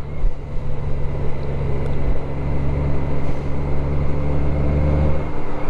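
Motorcycle engine running steadily, a low hum with a few steady tones above it.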